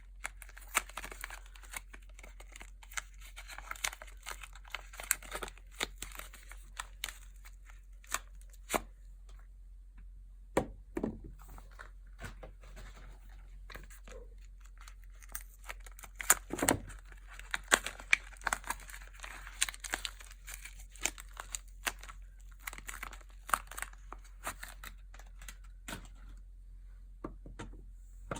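Soap packaging being torn open and unwrapped, its wrapping crinkling in two long spells with scattered clicks between them. A couple of dull thuds come about eleven and sixteen seconds in.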